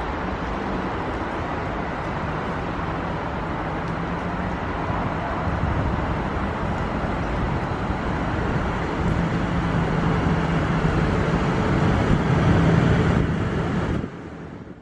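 A South Western Railway electric train approaching and pulling into the platform, its running noise and a low motor hum growing steadily louder, then cut off abruptly near the end.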